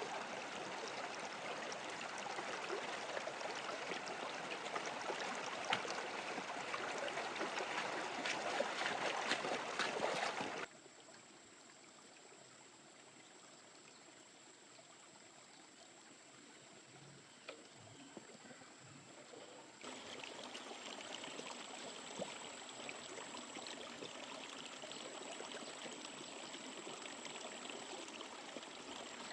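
River water running, loud at first, then much quieter after an abrupt cut about a third of the way in. After a second cut about two-thirds in it runs again, with a steady thin high whine over it.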